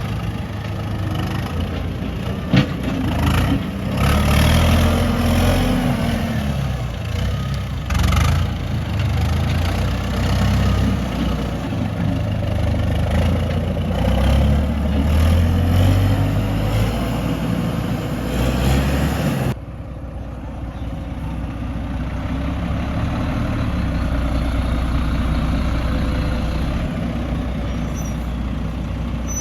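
Heavy diesel earthmoving machinery running and revving, its pitch rising and falling, with a sharp click about two and a half seconds in. The sound changes abruptly about two-thirds of the way through to a steadier engine drone.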